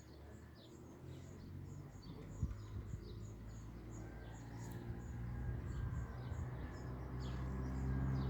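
A flock of small wild birds chirping, many short high chirps overlapping without pause. A low rumble swells louder from about two seconds in.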